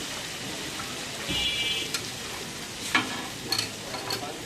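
Chicken chaap frying in oil, a steady sizzling hiss, with a few sharp clicks and a brief high ringing tone about a second in.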